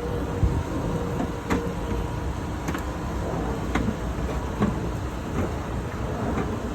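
A heavy machine's engine runs steadily with a low rumble and a faint steady whine. Half a dozen sharp metal knocks and clinks come at irregular intervals, the first about a second and a half in.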